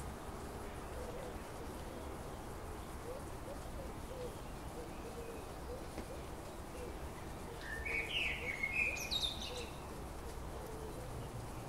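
Birds calling over a steady low background noise: faint short chirps throughout, then a louder, brighter bird call of several quick notes for a second or two about eight seconds in.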